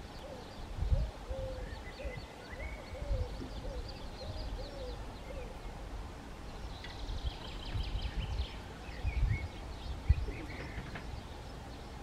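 A bird giving a run of short, low hooting notes, about two a second, that stops about halfway through, with thin high chirps of other small birds and a few low thumps.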